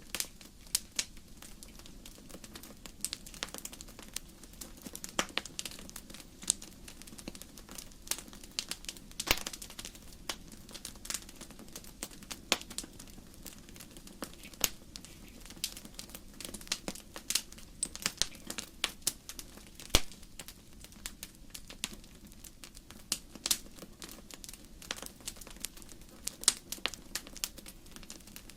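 Firewood burning in a fireplace, crackling: irregular sharp pops and snaps, at times several a second, over a steady low background hum.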